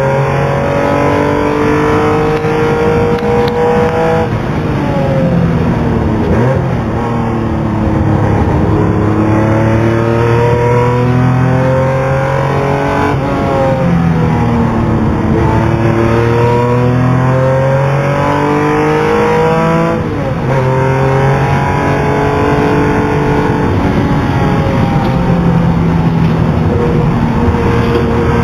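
Porsche 911 R's air-cooled 2.0-litre flat-six engine at racing speed, heard from inside the cabin. The revs climb hard through the gears and drop sharply several times as the driver lifts and downshifts for corners.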